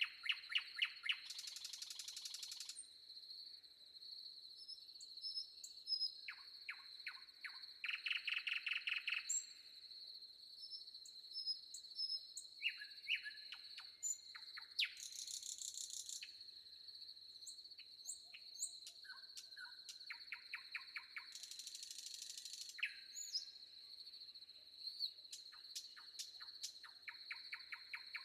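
Forest birds singing: repeated phrases of separate notes that quicken into fast trills, several seconds apart, with some shorter high buzzy phrases. A steady high insect drone runs underneath.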